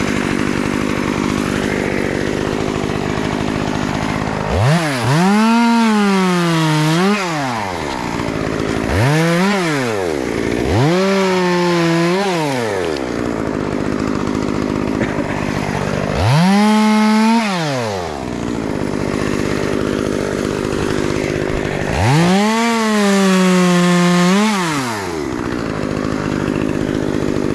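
Stihl two-stroke chainsaw idling and revved up about five times to cut small branches. On each cut the pitch climbs, sags a little under load, then drops back to idle.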